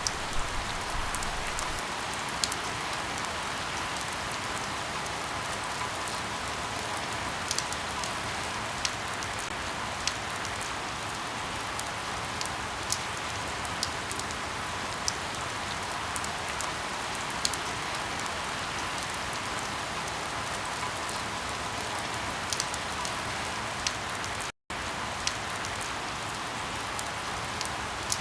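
Steady rain falling, with scattered sharp pops and snaps of crackling firewood every second or two. The sound cuts out completely for an instant near the end.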